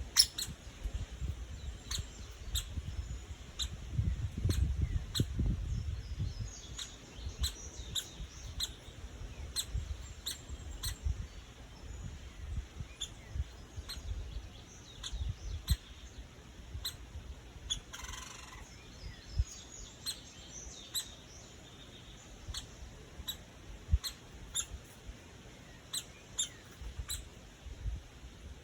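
Woodpecker giving short, sharp, high call notes, repeated irregularly about once or twice a second. A low rumble comes a few seconds in.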